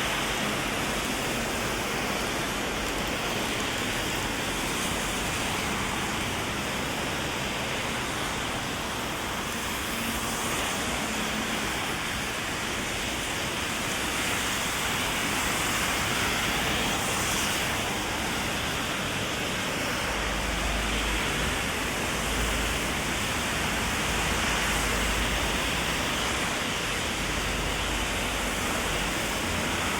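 Heavy rain falling steadily, heard under an umbrella as a dense, even hiss. About two-thirds of the way through a low rumble comes in under it.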